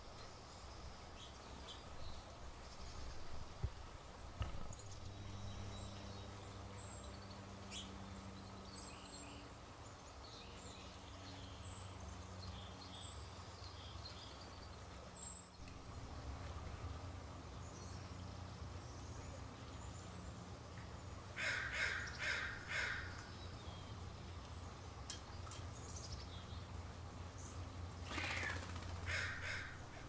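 Wild birds calling: two quick runs of short, harsh calls, four or five in a row, the second run near the end. Under them are scattered faint high chirps and a steady low hum.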